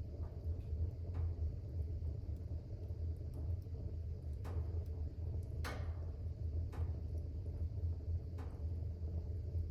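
Fire burning in a fireplace: a steady low rumble with a few scattered crackles and pops, the sharpest a little past the middle.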